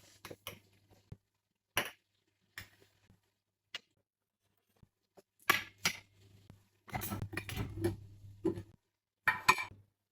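Dishes and kitchen utensils being handled: separate clinks and knocks every second or so, with a denser run of clattering about seven seconds in.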